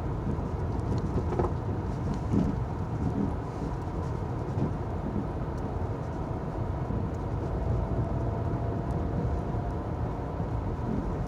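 Steady low rumble of a Chevy's engine and tyres on a snowy road, heard from inside the cabin, with a faint steady hum and a few light knocks.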